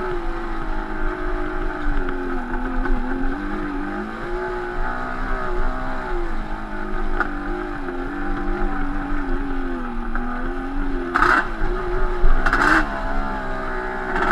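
Yamaha Banshee 350's twin-cylinder two-stroke engine, with Toomey T5 expansion pipes, running on the trail, its pitch rising and falling as the throttle is worked. Two brief hissing bursts of noise come near the end.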